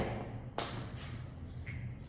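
A single sharp knock about half a second in, fading out, over a low steady hum.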